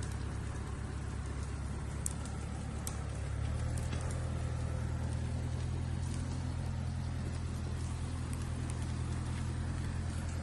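Small Japanese tractor's engine running steadily, its note shifting slightly about three and a half seconds in, with a few light clicks over it.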